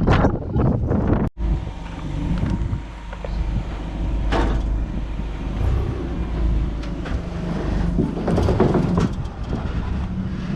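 A 26-foot box truck's engine running with a steady low rumble, with a couple of short louder noises over it.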